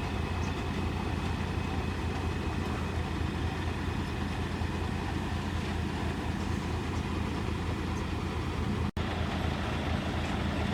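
Heavy diesel engine running steadily at low revs, a constant low hum with no change in speed. The sound drops out for an instant about nine seconds in.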